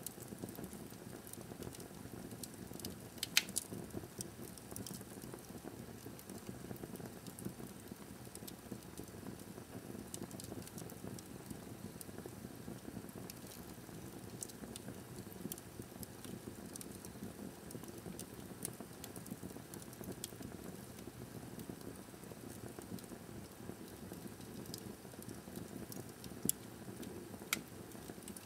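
Wood fire burning in a fireplace: a steady low rush of flame with scattered small crackles, and a few sharper pops, one about three seconds in and two near the end.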